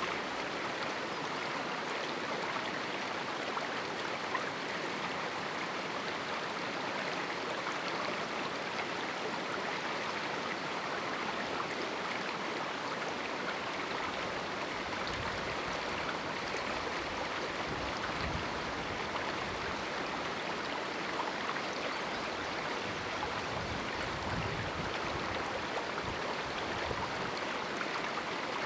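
A river in a small canyon flowing with a steady rush of water, with a few low rumbles past the halfway point.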